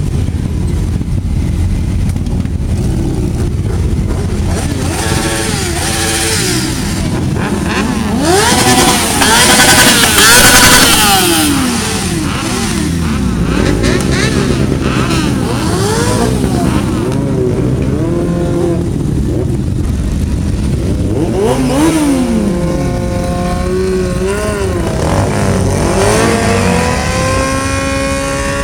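Car and motorcycle engines revving and driving past one after another, their pitch rising and falling. The loudest, harshest revving comes about a third of the way in. Near the end one engine holds a steadier note.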